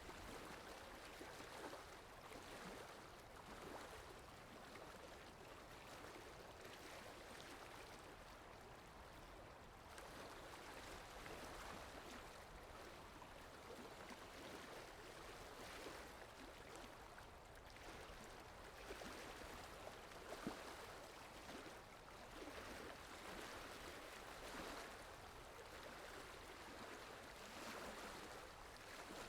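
Faint, steady rush of flowing water, its sound shifting slightly about ten seconds in.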